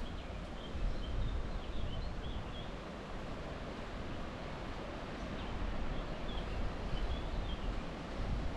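Wind blowing on the microphone with a low rumble and a steady rustle, while small birds chirp in short high phrases, a few in the first couple of seconds and again about six seconds in.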